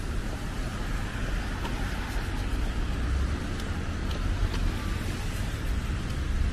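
Steady low rumble of city street traffic, with faint short crunches of footsteps in snow.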